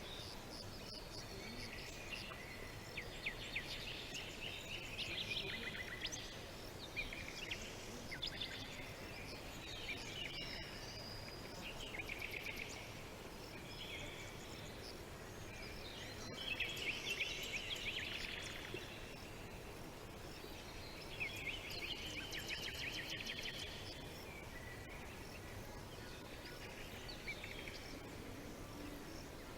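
Several songbirds chirping and trilling in short, rapid phrases, one after another, over a steady background hiss.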